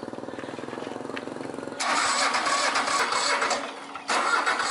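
Old farm tractor's engine being started: a rapid, even chugging, then about two seconds in it turns into a much louder running noise. The louder noise drops away briefly near the end and comes back.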